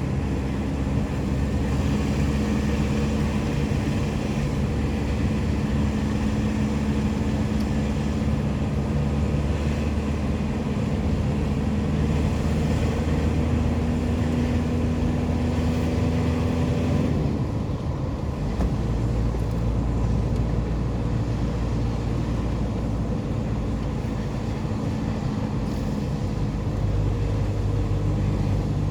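Motor engines running steadily, their note changing abruptly about 17 seconds in and again near the end.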